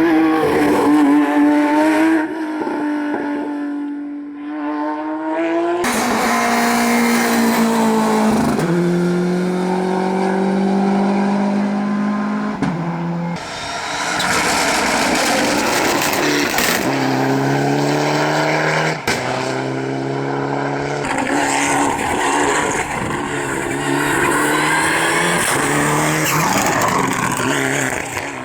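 Rally cars at full attack on a closed special stage, their engines revving hard. The pitch climbs and drops in steps as they shift through the gears. The sound changes abruptly a few times as one car's run cuts to the next.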